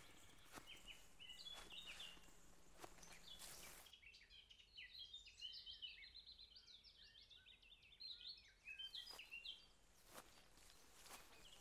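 Faint birdsong: small birds giving many short, high chirps in scattered bursts.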